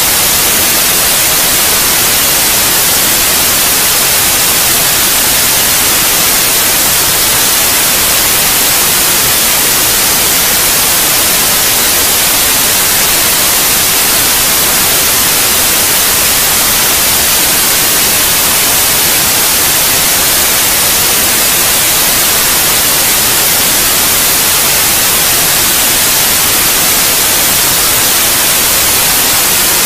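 Steady, loud white noise: an even hiss, strongest in the highs, with no change or break, played as a sleep aid for babies.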